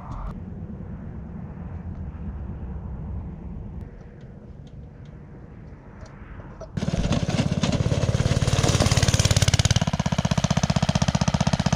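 Small gasoline engine running with a fast, even run of firing pulses. About seven seconds in it suddenly becomes much louder and fuller, as if it has come close or been opened up, and it stays loud.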